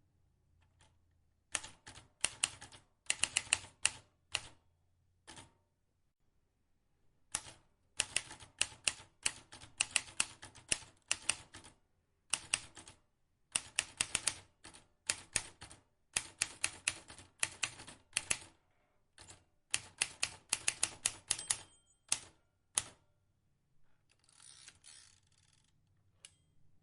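Manual vintage typewriter keys struck in quick runs of sharp clicks, with pauses of a second or two between runs. A short, softer scraping noise comes near the end.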